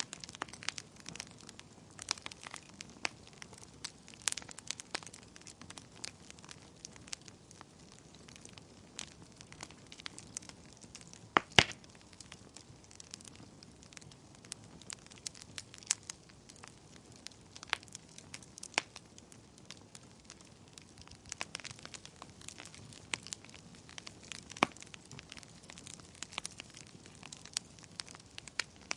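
Wood fire crackling in a fireplace: irregular sharp pops and snaps over a faint steady hiss, with one louder snap about halfway through.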